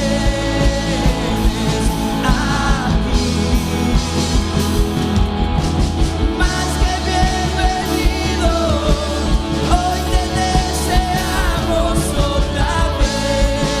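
Live worship band playing a song with singing: sung melody lines over a steady drum beat and bass.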